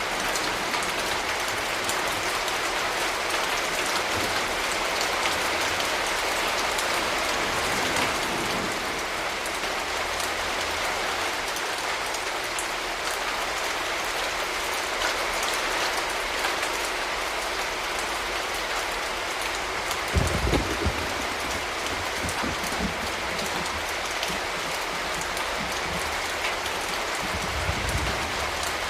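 Steady, heavy rain falling on surfaces, an even dense patter. Brief low thuds come twice, about two-thirds of the way in and again near the end.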